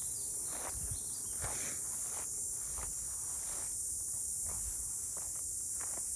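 Footsteps at a steady walking pace, about one step every second or less, over a steady high-pitched drone of insects.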